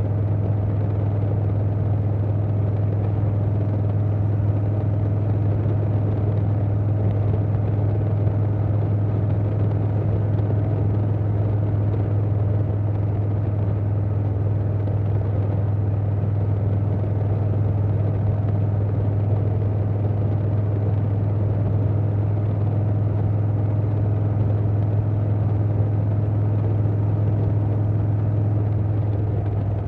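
Harley-Davidson Softail Standard's Milwaukee-Eight V-twin running at a steady, even engine speed through a Vance & Hines Big Radius 2-2 exhaust, with wind rushing past.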